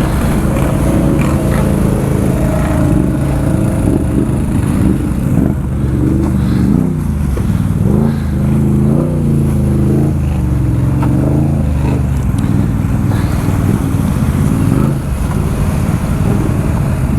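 ATV engine running and revving off-road, its pitch rising and falling several times as the throttle is worked.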